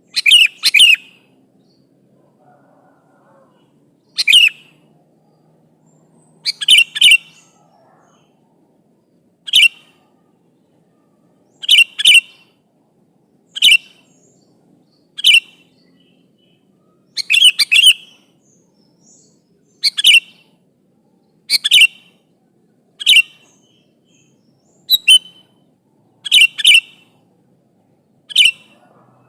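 Sooty-headed bulbul (kutilang) calling: short, loud, clear phrases, often given as a quick pair, repeated every couple of seconds. A gacor (vigorously singing) bird's call, used as a lure to draw answers from other kutilang.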